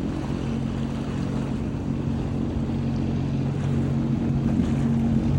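Sea-Doo FishPro personal watercraft's engine running at a steady cruise, a steady hum under a rushing noise of wind and water, getting slightly louder near the end.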